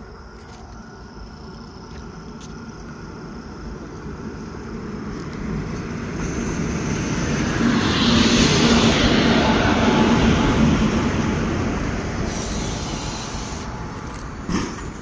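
Indian Railways passenger train rolling in alongside the platform, its wheels rumbling on the rails: the sound builds steadily as the coaches come alongside, is loudest about eight to eleven seconds in, then eases off. A short sharp knock near the end.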